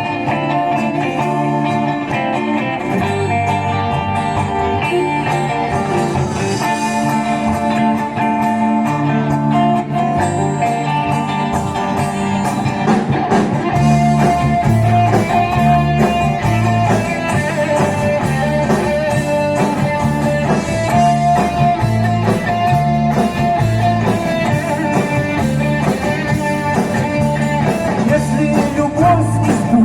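Live band music with no vocals: electric guitar over a repeating bass line and drums.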